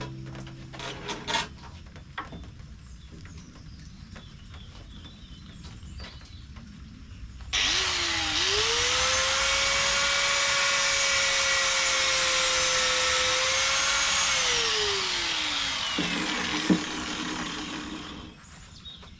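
A few clicks and knocks, then a power tool's motor starts suddenly about seven seconds in. It spins up to a steady whine, holds for several seconds, then winds down and stops near the end.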